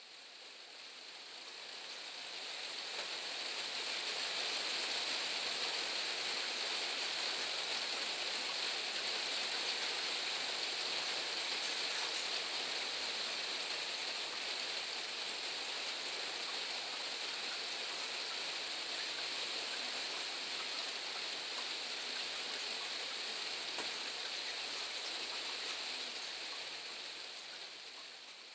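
Steady rain hiss, fading in over the first few seconds and fading out near the end.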